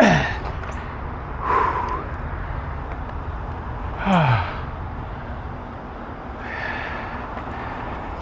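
A man sighing, two voiced sighs falling in pitch at the start and about four seconds in, with breathy exhales between them, over a steady low rumble of wind and riding noise on a bicycle.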